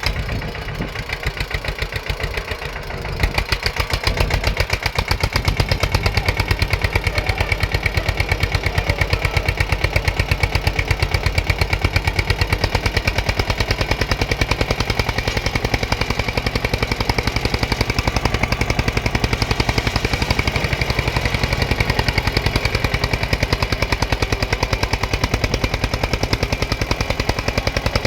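Eicher tractor's diesel engine running with a rapid, even exhaust beat. It picks up sharply about three seconds in and then runs steadily.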